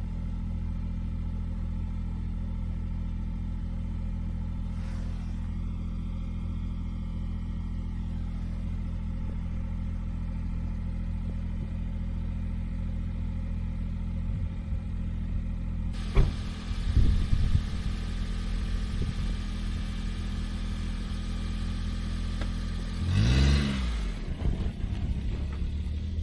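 A small vehicle engine, the Daihatsu Hijet kei truck's, running steadily. About 16 s in the sound grows brighter and there are a few knocks. About 23 s in the engine revs briefly, rising and falling in pitch.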